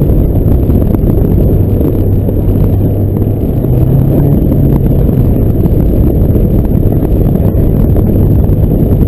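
Chevrolet Duramax LB7 V8 turbo-diesel pickup heard from inside the cab while driving: a loud, steady low engine drone with road and wind noise, the engine note rising briefly in pitch around the middle before settling back.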